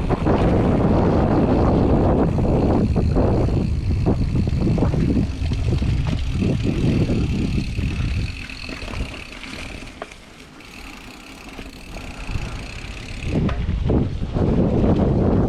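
Wind buffeting the microphone and tyre noise from a mountain bike rolling over a dirt trail, with scattered knocks from bumps. The rush dies down for a few seconds in the middle as the bike slows, then comes back.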